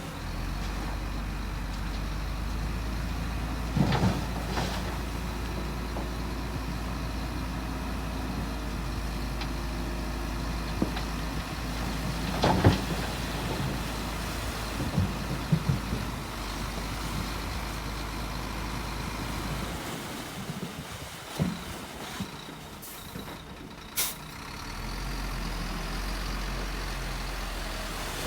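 Heavy diesel earthmoving machinery running steadily, with metallic clanks and knocks now and then. About twenty seconds in, the low engine note falls away. A short, sharp hiss comes a few seconds later, and then the engine sound returns.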